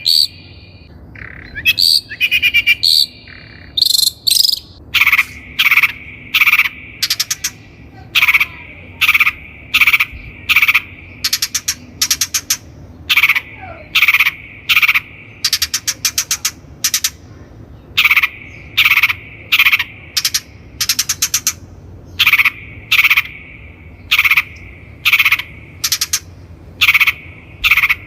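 Long-tailed shrike calling: a few varied high song notes, then a long run of short rasping calls repeated a little more than once a second, over a faint steady insect-like drone.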